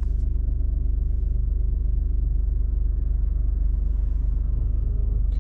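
Steady low drone of a car's engine and road noise while driving, heard from inside the car.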